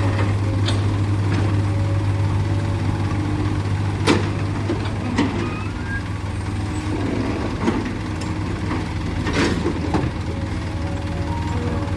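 Heavy diesel engine running steadily at low revs, with a few sharp clanks of metal at irregular intervals.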